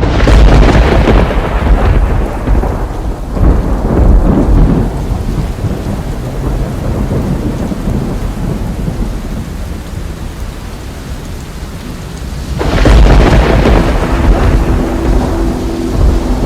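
Thunderstorm: a long roll of thunder at the start that slowly dies away under steady rain, then a second thunderclap rumbling in near the end.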